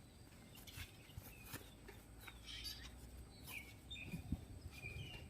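Faint outdoor ambience with a few short bird chirps and scattered light clicks.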